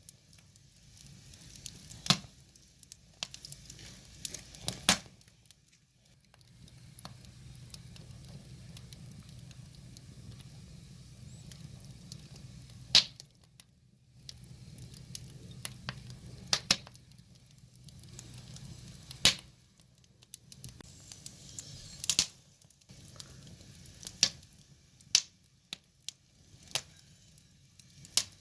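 Wood fire burning, with sharp irregular crackles and pops every second or two over a soft rushing hiss of the flames.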